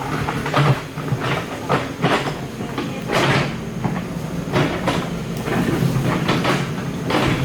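Excavator diesel engine running steadily, with irregular clanks and scrapes of metal on rock and soil as it digs.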